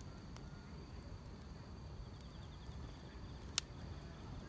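Grass insects such as crickets trilling steadily over a crackling wood fire, with a low rumble from the fire. There are a few small crackles and one sharp pop about three and a half seconds in.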